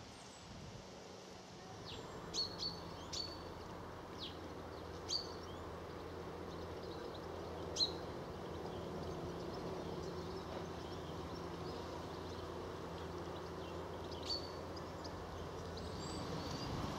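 Outdoor garden ambience with scattered short, high bird chirps, about seven in all, over a steady low hum that stops near the end.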